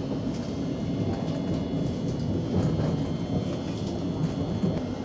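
Ride noise inside a moving Siemens Class 700 electric train: a steady rumble of wheels on the rails with a faint steady high whine, and a few sharp clicks from the track.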